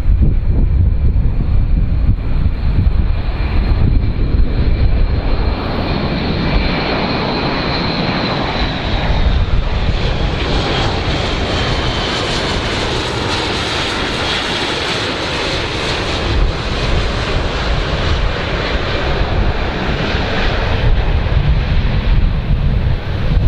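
Large airplane flying past. The engine noise carries a high whine that slides down in pitch and grows fuller toward the middle, then eases off, with wind rumbling on the microphone near the start and end.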